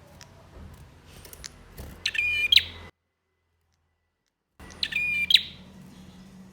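Male prinia (prenjak) calling: a loud, rapid chattering phrase about two seconds in, cut off abruptly by a second and a half of dead silence, then the same phrase repeated.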